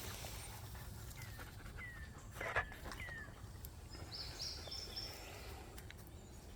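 Birds calling: a few short falling chirps, one louder sharp call about two and a half seconds in, and a higher stepped phrase of notes a little after four seconds, over a low steady outdoor rumble.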